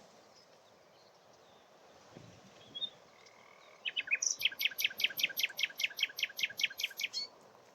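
Common nightingale singing: a few soft lead-in notes about four seconds in, then a loud, fast run of about seventeen identical repeated notes lasting some three seconds. A brief high chirp comes a little before, over a steady wind hiss.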